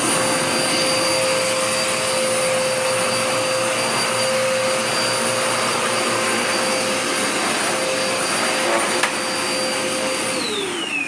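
Dirt Devil Power Max Pet vacuum cleaner running steadily with a constant whine, then switched off near the end, its pitch sliding down as the motor spins down.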